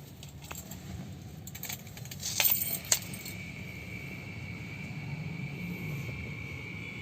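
A bunch of keys jangling and clinking, loudest between about two and three seconds in, with a sharp click near three seconds. After that a steady high tone sets in.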